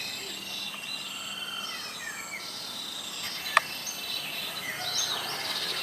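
Several small birds chirping and whistling in short calls, over a steady insect hum. A single sharp click sounds a little past halfway.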